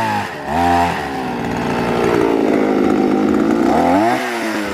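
Small petrol engine of a planting-hole digging machine (earth auger) revving up and down several times, then running steadily at speed for a couple of seconds before revving up and down again near the end.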